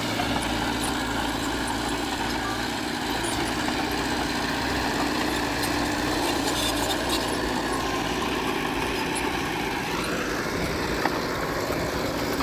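Heavy diesel engine of earthmoving machinery running steadily, with faint ticking over it. About ten seconds in, a rising whine comes in, and a single sharp knock follows soon after.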